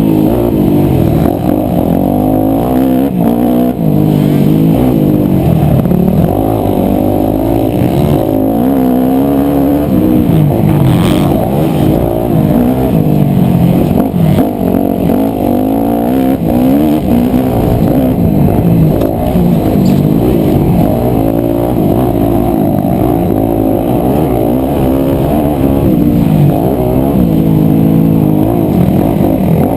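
250cc four-stroke single-cylinder motocross bike engine revving up and dropping back over and over as it is ridden round a track, loud and continuous, its sound sitting mostly low.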